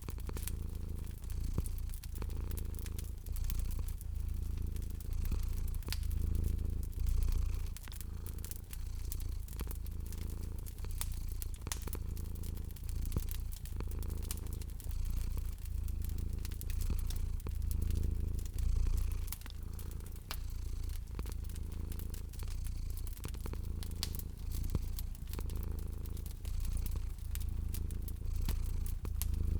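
Domestic cat purring, a low rumble that swells and fades with each breath, over a wood fire crackling with frequent sharp pops.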